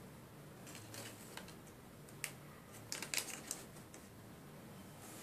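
A few faint, irregular clicks and taps, clustered about three seconds in.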